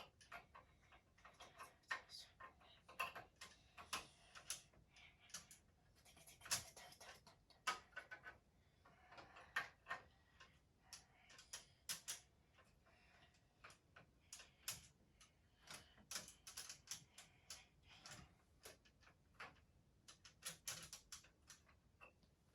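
Faint, irregular clicks and light knocks of small objects being handled, with near silence between them.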